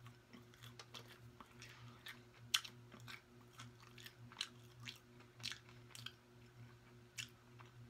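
Close-miked chewing of a mouthful of syrup-dipped turkey bacon: irregular small crunches and wet mouth clicks, one sharper crunch a little over two seconds in. A faint steady low hum runs underneath.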